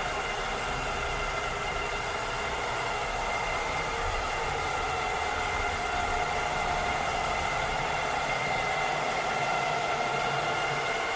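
Cleaning robot running: a steady motor whir with a high whine held on a few even tones over a hiss.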